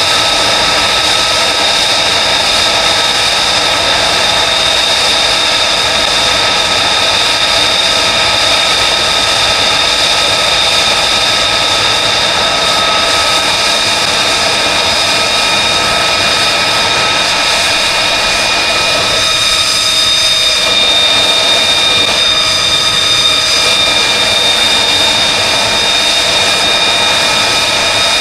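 F-35B's Pratt & Whitney F135 turbofan running at ground idle: a steady, loud jet whine with several high tones over a rushing noise. The whine shifts slightly about two-thirds of the way through.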